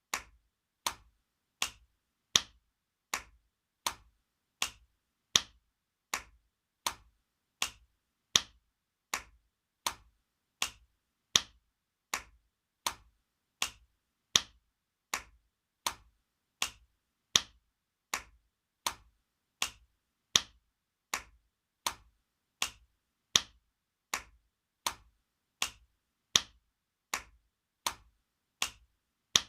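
Spanking sound effect: sharp single slaps repeating evenly, about four every three seconds, with every fourth slap louder than the three that follow.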